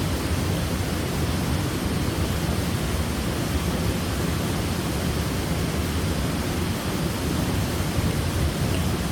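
Waterfall: a steady, even rush of falling water with a deep low rumble, unchanging throughout.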